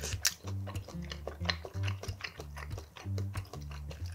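Close-up mouth sounds of a person eating ramen noodles: many short wet clicks of chewing. Underneath runs background music with a low, stepping bass line.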